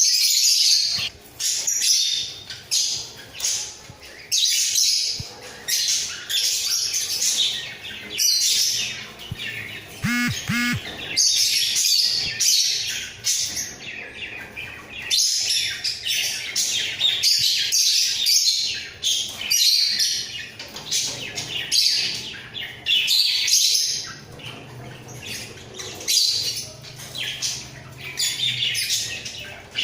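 A pair of budgerigars warbling and chattering without pause: a dense run of quick, high chirps and squawks, with a brief lower call about ten seconds in.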